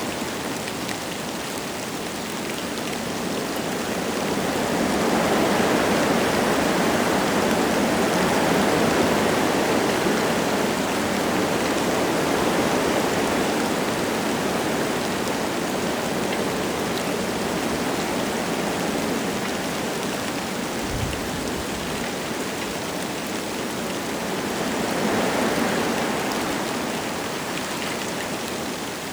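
Wind gusting through forest trees with light rain falling, a steady rushing that swells louder about a fifth of the way in and again near the end.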